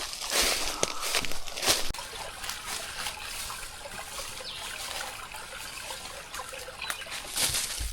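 Water trickling steadily, with a few sharp crunching sounds in the first two seconds.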